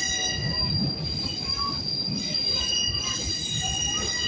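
Passenger train's steel wheels squealing steadily against the rails in several high, sustained tones, over the low rumble of the moving cars.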